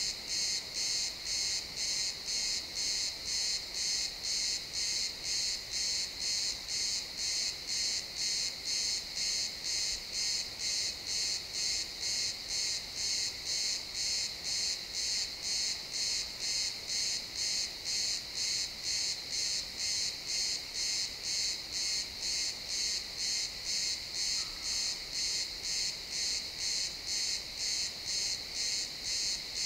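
Crickets chirping in a steady chorus that pulses evenly at about two chirps a second.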